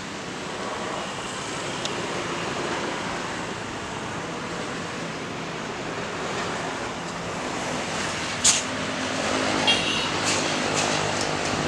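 Road traffic passing by: a steady wash of vehicle and tyre noise, with a sharp click about eight and a half seconds in and a few lighter ticks after it.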